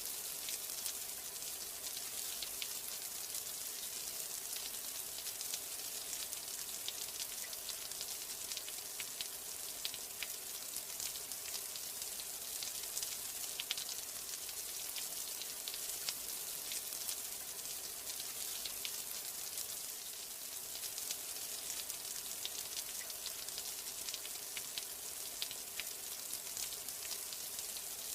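Steady rain falling, an even hiss dotted with many fine, quick drop ticks.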